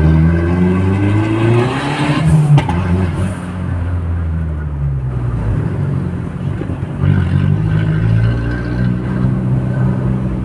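Audi A3's turbocharged engine, tuned to about 250 hp, accelerating under way: it rises in pitch over the first two seconds, gives a brief sharp hiss about two and a half seconds in, runs lower for a few seconds, then climbs again from about seven seconds in.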